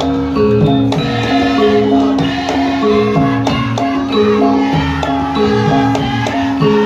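Javanese gamelan ensemble playing: struck pitched notes ring in a steady, repeating pattern.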